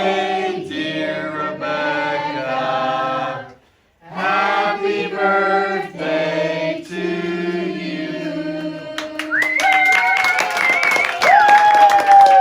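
A group of voices singing together unaccompanied, in several parts, with a brief break about four seconds in. Near the end a high voice holds long notes over a regular beat.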